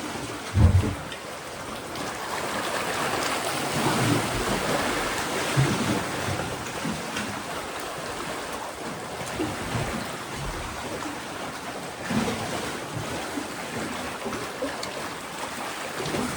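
Sea waves washing against a rocky shore: a continuous rushing wash that swells and eases, with a brief low thump about a second in.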